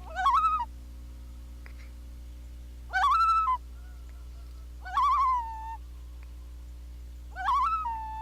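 Geese honking: four short calls, each under a second and rising then falling in pitch, about two seconds apart.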